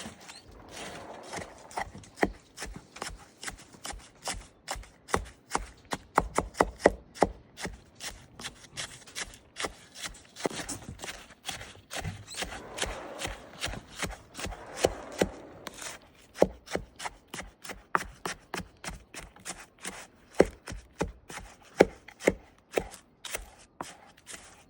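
A spoon stirring snow mixed with condensed milk in a bowl to make snow ice cream: a long run of rapid, irregular clicks and knocks with scraping and crunching in between.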